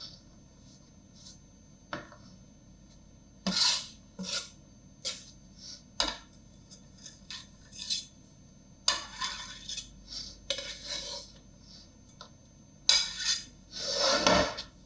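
Kitchen utensils clinking and scraping against dishes in irregular short strokes, busier near the end.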